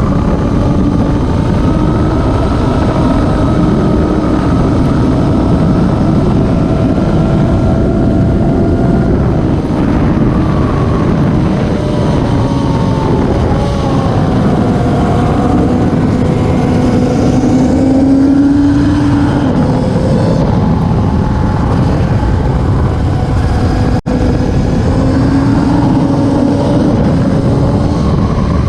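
Several classic superbike racing motorcycles running hard at once, their engine notes overlapping and sliding slowly up and down in pitch. The sound cuts out for an instant about three-quarters of the way through.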